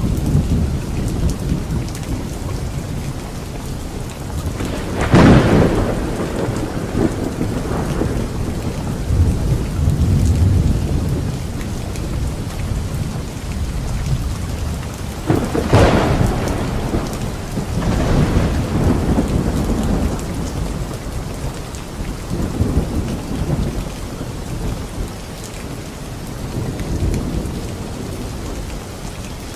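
Thunderstorm with steady rain: two sharp thunderclaps, about 5 and 16 seconds in, each trailing off into a long rolling rumble, over rain falling without a break.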